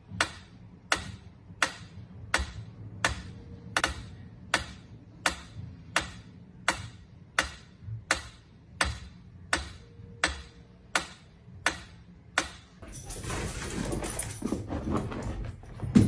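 A sharp click or tap repeating evenly, about every three-quarters of a second, for some twelve seconds. Then a stretch of rustling noise, and a single knock at the end.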